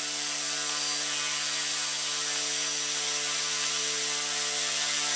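Blade mCP X BL2 micro RC helicopter's electric motor and two-blade main rotor spinning at a steady speed, a steady hum with a thin high whine over a rushing hiss.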